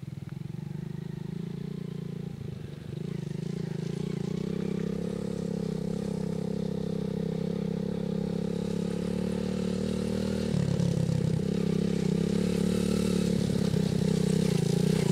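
Small dirt bike engine running steadily under a beginner rider, growing gradually louder as the bike comes nearer, its note briefly changing about ten seconds in.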